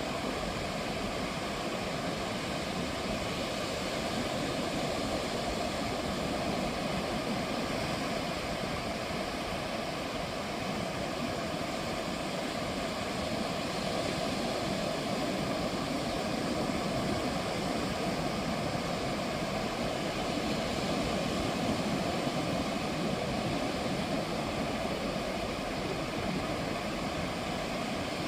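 Ocean surf on a beach: a continuous, even rush of breaking and washing waves that swells slightly and eases, with no separate calls or knocks standing out.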